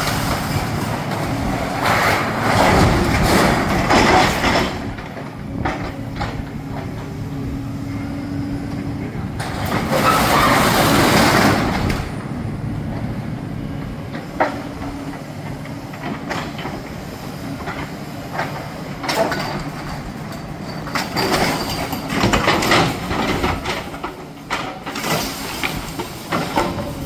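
A demolition excavator's diesel engine runs steadily while its bucket crashes and scrapes through debris, with several louder bouts of smashing and clattering as it breaks up a small shelving unit.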